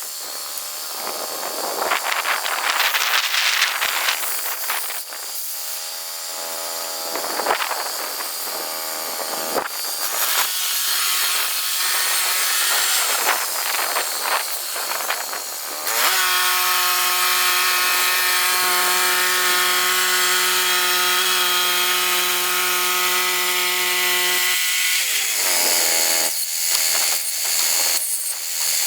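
Chainsaw cutting wood: uneven bursts of revving and cutting, then the engine held at a steady high speed for several seconds before the pitch drops as the throttle is released near the end.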